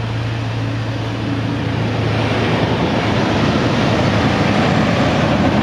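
Jeep Wrangler 4.0-litre inline-six engine idling shortly after a cold start. A steady low hum gives way about halfway through to a louder rushing noise that grows toward the end.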